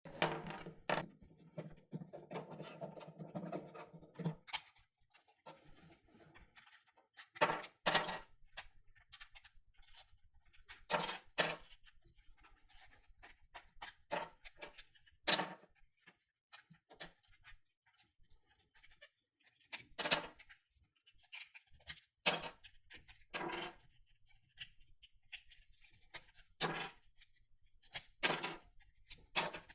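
Sharp clicks and knocks at irregular intervals, about a dozen in all, with faint scraping between them: the pieces of an old Soviet Rubik's cube being handled. A low buzz sounds for about the first four seconds.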